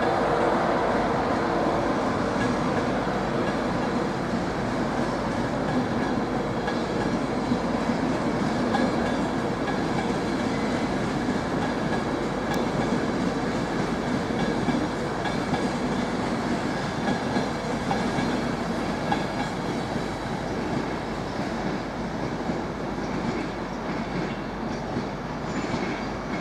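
A train running along the track, its wheels clattering steadily over the rail joints, slowly fading towards the end.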